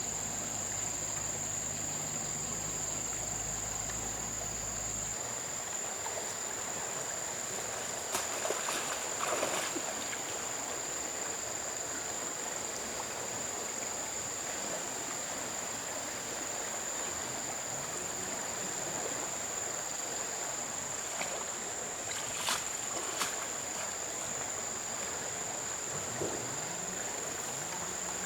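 Steady high-pitched insect drone over a wash of flowing river water, with a few short knocks or splashes about a third of the way in and again near the end.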